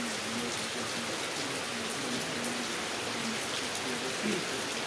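Heavy rain falling steadily, with a few sharper drops standing out, and a voice talking faintly underneath.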